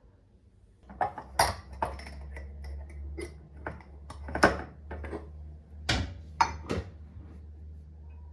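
Dishes and utensils handled in a kitchen: a run of clinks and knocks of varying loudness starting about a second in, over a low steady hum.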